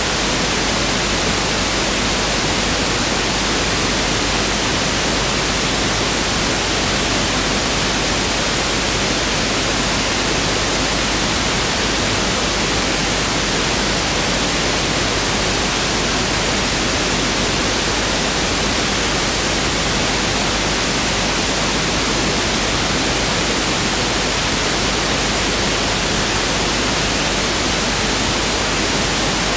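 Pink noise test signal (1/f noise): a steady, even hiss with no changes.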